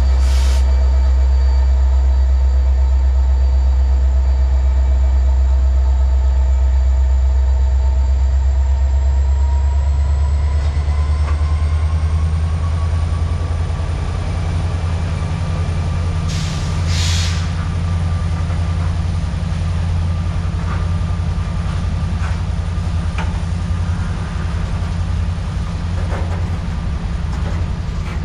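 CSX diesel-electric locomotive 4541, working as a mid-train distributed power unit, runs under power as the freight train pulls away from a stop. Its deep engine drone carries a whine that rises in pitch about ten seconds in. Freight cars then roll past with scattered wheel clicks.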